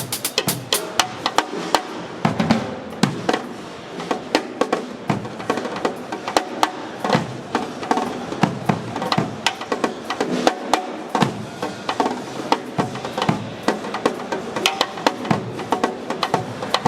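Sonor acoustic drum kit played live in a busy groove: rapid, sharp stick strokes over snare and bass drum hits.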